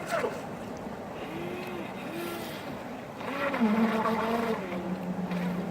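Feilun FT009 RC speed boat's brushless electric motor whining over water noise. Its pitch rises and falls in short throttle blips, then climbs about three seconds in and holds steady at speed.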